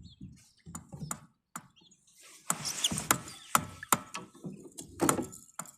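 Irregular clicks and knocks of fishing tackle being handled, with rustling from about two and a half seconds in, as a bluegill is brought in on the line.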